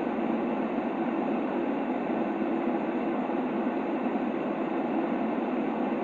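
Steady filtered white noise, a dull, even hiss weighted toward the low-middle range with the deep bass and the high treble cut away, unchanging throughout.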